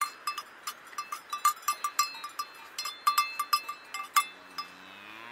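Cowbell clanking irregularly, a quick run of metallic strikes as the cow moves. About four seconds in, a cow starts a low moo that rises in pitch.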